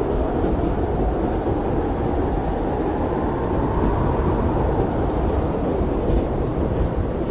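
Blizzard wind blowing steadily, a deep, even rush with a faint howl that swells a little midway.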